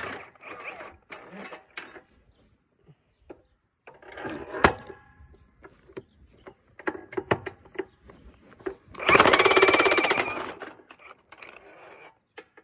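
Large 1-inch-drive Ingersoll Rand cordless impact wrench hammering for about a second and a half on a tractor dual-wheel clamp nut, near the end. Earlier comes a single metallic clank with a brief ring, among scattered small clicks and knocks of the socket and wheel hardware.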